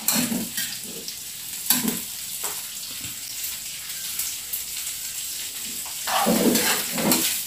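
Shallots, garlic and chilies frying in a wok with a steady sizzle, with a few scrapes and knocks of a metal spatula early on and a louder clatter about six seconds in.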